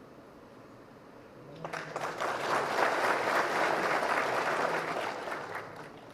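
An audience applauding. The clapping starts about a second and a half in, holds steady, and dies away just before the end.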